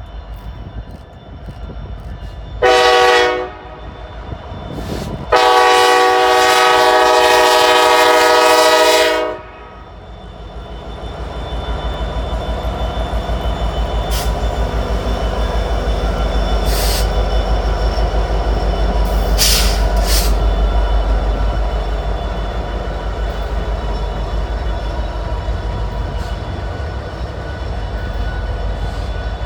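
Diesel freight locomotive's air horn sounding a short blast and then a long one. The train then passes with a loud, steady low engine and wheel rumble that swells and eases, with a few brief high wheel squeals.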